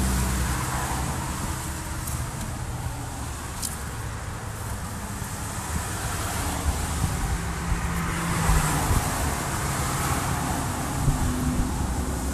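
Ford 6.4 L Powerstroke V8 turbodiesel running steadily at idle, with a few sharp ticks in the second half. Its oil is full of metal shavings, the sign of internal damage that the owner has not yet traced.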